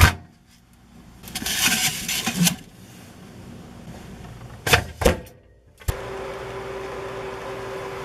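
A sharp knock, then a rustle, then two clicks, and about six seconds in a microwave oven switches on and runs with a steady hum.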